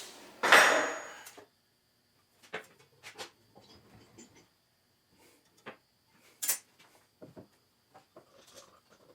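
Woodshop handling sounds: a short loud scraping rush about half a second in, then scattered light knocks and clicks of wood and tools being set down and moved.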